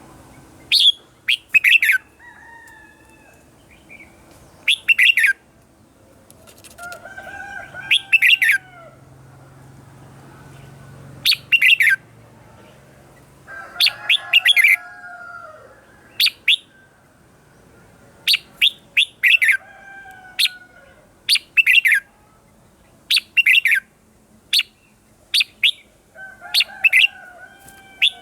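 Red-whiskered bulbul singing: loud, quick phrases of sharp, high notes repeated every few seconds, coming faster in the second half, with fainter, lower warbling notes between them.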